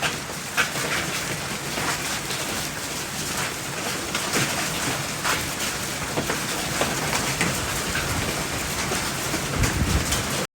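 Hail pelting down: a dense hiss of falling ice and rain with frequent sharp cracks of single hailstones striking hard surfaces. A brief low rumble near the end.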